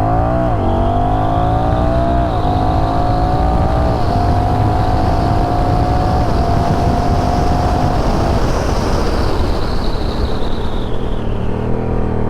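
Honda Rebel 1100 DCT's parallel-twin engine, fitted with a Coffman's Shorty exhaust, accelerating at full throttle, its pitch climbing and briefly dipping at three quick upshifts of the dual-clutch transmission in the first four seconds. About eight seconds in the throttle comes off and wind rush over the rider takes over, with the engine back at lower revs near the end.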